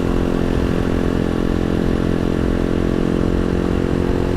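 Janus Halcyon 250 motorcycle's single-cylinder engine running at a steady cruising speed as it rides along a gravel road, with low road rumble underneath.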